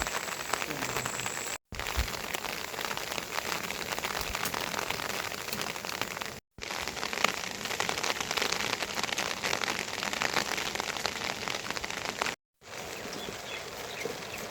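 Steady rain falling, a dense patter of drops on hard surfaces. It breaks off for an instant three times.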